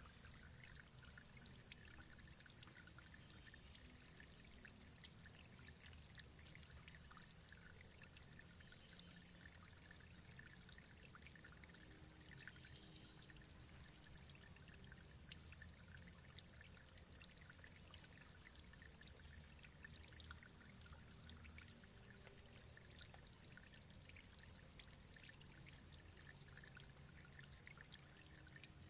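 Faint running water, flowing steadily with many small trickling splashes.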